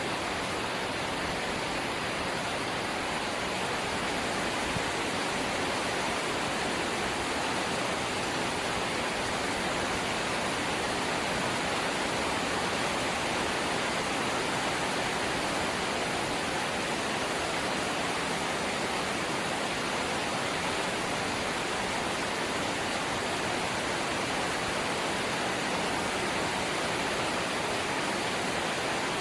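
Light rain falling, a steady even hiss with no separate drops or gusts standing out.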